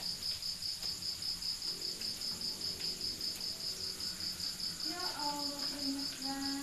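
Cricket chirping steadily at night, a high-pitched pulsing trill of about six chirps a second. A faint voice-like sound comes in about five seconds in.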